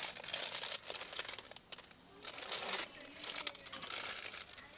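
Crinkling and rustling of something being handled, in irregular bursts, the loudest a little past halfway.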